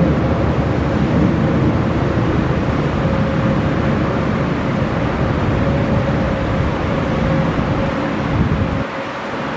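Jet airliner engine noise: a loud, steady rumble with a constant whine, whose deep rumble falls away suddenly near the end.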